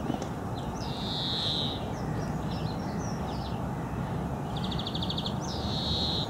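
A songbird sings the same phrase twice: a quick run of short repeated notes ending in one long drawn-out note. A steady low rumble runs underneath.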